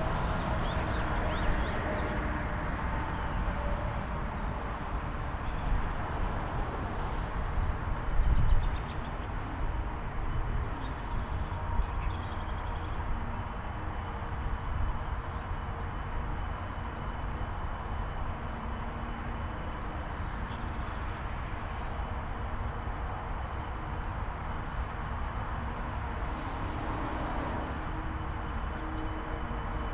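Steady rumbling vehicle noise, swelling briefly about eight seconds in, with a few faint short high chirps above it.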